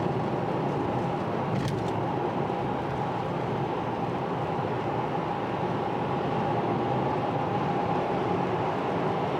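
Steady road and engine noise of a car heard from inside the cabin while driving, with a faint constant hum.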